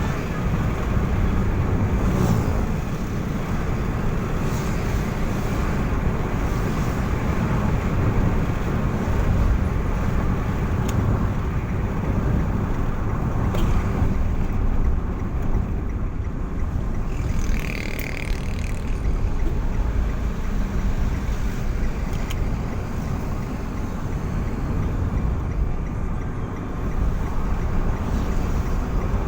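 Car on the move: a steady low rumble of engine and tyres on the road, with a short higher-pitched sound about eighteen seconds in.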